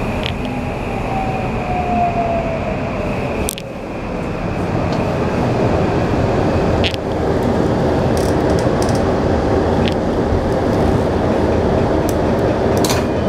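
Toei 5500-series train running on its Mitsubishi hybrid SiC VVVF inverter, braking into a station. The inverter whine falls in pitch and stops about three and a half seconds in. Steady running noise carries on after it, with a few sharp clicks.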